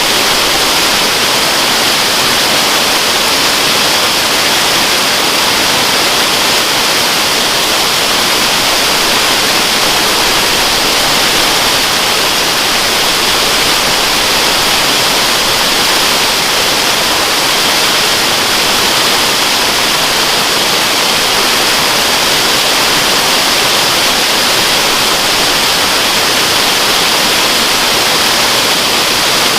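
Waterfall: a steady, unbroken rush of falling water, mostly a bright hiss.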